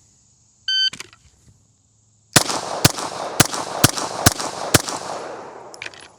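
Electronic shot timer beeps once, and about a second and a half later a handgun fires six rapid shots about half a second apart, a Bill drill from the start signal. Each shot echoes across the range.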